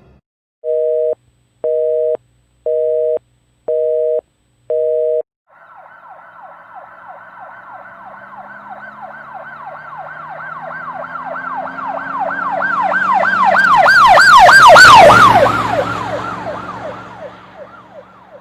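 Telephone busy signal: five short beeps of a steady two-note tone, about one a second. Then an emergency vehicle's yelp siren, rapid repeated falling wails, swells louder, drops in pitch as the vehicle passes, and fades away.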